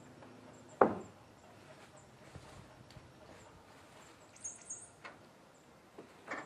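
A single sharp knock about a second in, a few faint taps, and a second, quieter knock near the end.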